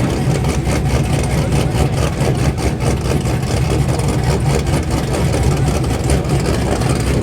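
Truck engine running steadily and loud, a low continuous drone with no revving.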